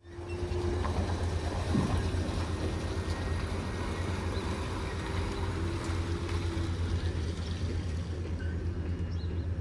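Electric garbage truck running: a steady low hum with a faint wavering whine above it.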